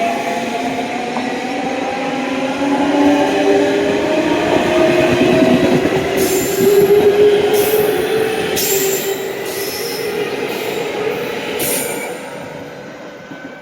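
Electric commuter train on the Chuo Main Line moving along the platform track, its motors giving a whine that glides slowly in pitch over the running rumble. About halfway through come several short, high-pitched wheel squeals, and the sound then fades away near the end.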